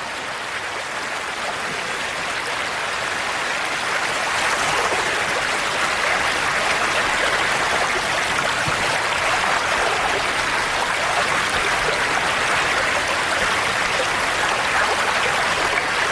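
River water rushing in a steady, even flow, swelling over the first few seconds and then holding steady.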